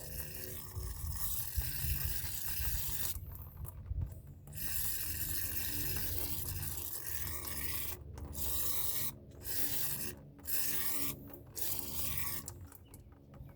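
Aerosol brake cleaner sprayed onto a caliper piston's dust boot to flush off brake dust: a steady hiss in several long bursts with short breaks between them.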